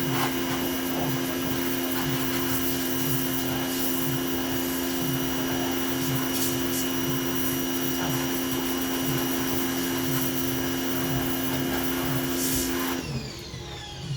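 Pressure washer running, a steady motor-and-pump hum under the hiss of the water jet blasting grease off a car's engine bay. It cuts off suddenly near the end.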